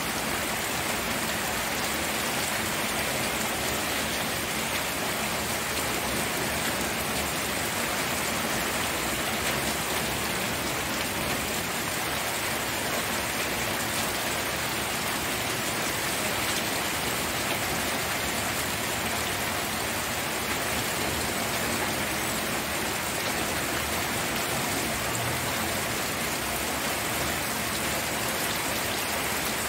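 Steady rain falling and pattering on surfaces, an even hiss with no change in intensity.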